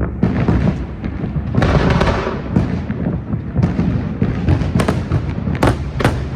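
New Year fireworks display: a continuous barrage of deep booms, with a dense crackling stretch about two seconds in and several sharp bangs near the end.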